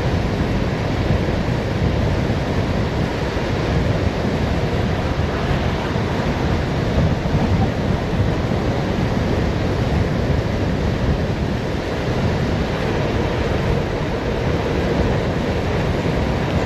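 Wind rushing over the microphone while the bicycle coasts fast downhill: a loud, steady roar, strongest in the low end, with no breaks.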